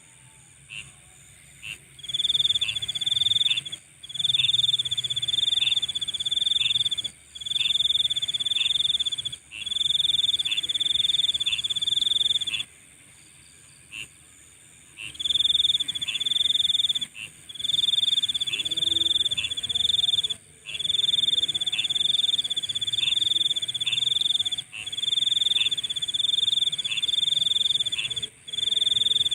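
A chorus of night insects: a high-pitched trill that runs for a few seconds at a time and breaks off, over a steady higher buzz, with short chirps repeating about twice a second. It dips into a short lull about halfway through.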